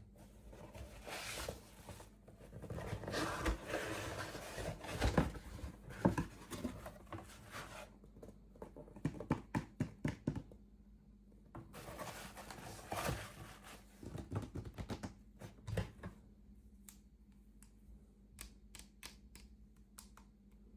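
Hands unpacking and handling a small toy and its packaging at close range: irregular rustling and crinkling with many small sharp clicks and taps, including quick runs of clicks, thinning out near the end.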